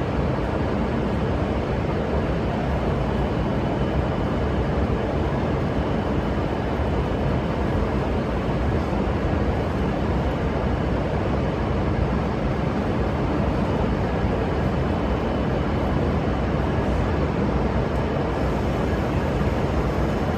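Steady, even rumble and hiss of a Shinkansen train standing at the platform, its on-board equipment running, with no break or change.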